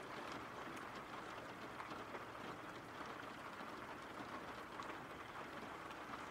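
Steady, faint rain falling, with scattered small drop ticks.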